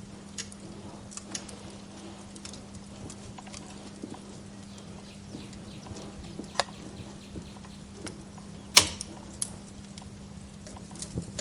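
Wood fire crackling in a fireplace: irregular small snaps and ticks, with one sharp, much louder pop about nine seconds in, over a steady low hum.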